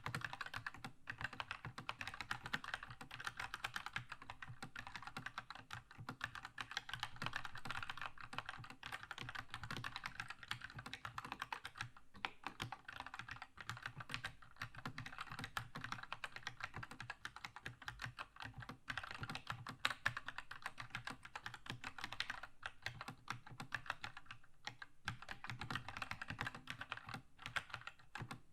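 Steady, fast typing on a Keychron K2 mechanical keyboard with Keychron's linear red switches, a dense run of key clacks broken by short pauses, with one louder key strike about two-thirds of the way in.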